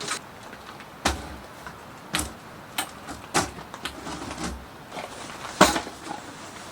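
A series of irregular sharp knocks and clatters, the loudest about five and a half seconds in, like gear or a door being handled.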